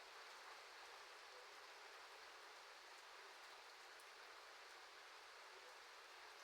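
Rain falling steadily: a faint, even hiss with a few light drop ticks.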